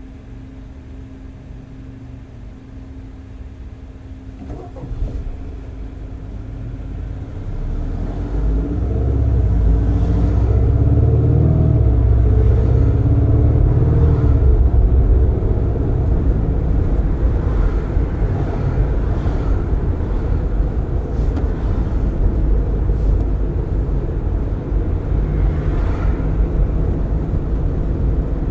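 Car driving with its windows open. A quieter steady hum gives way over several seconds to a rising engine note as it picks up speed, then steady tyre and wind noise at cruising speed.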